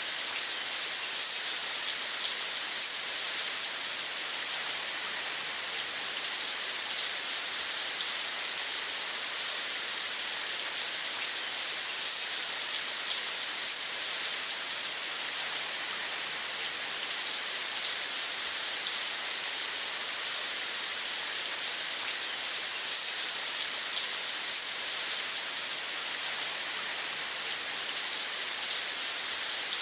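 Steady rain falling and pattering on surfaces: an even, unbroken hiss of many fine drops, with no birdsong or other distinct sounds standing out.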